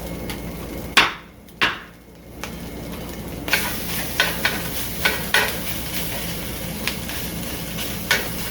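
Two sharp knocks about a second in, then, from about three and a half seconds, pulled pork sizzling as it reheats in a hot pan while a utensil stirs it, with repeated clicks of the utensil against the pan.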